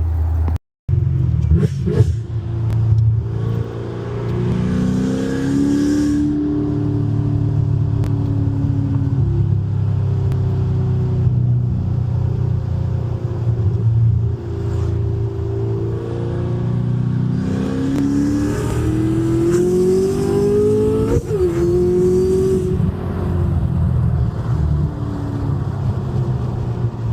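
Chevrolet Camaro ZL1's supercharged 6.2 L V8 running loud through its aftermarket exhaust, the engine note rising and falling as it is driven. Near the two-thirds mark it climbs steadily for a few seconds, then drops abruptly, as at a gear change.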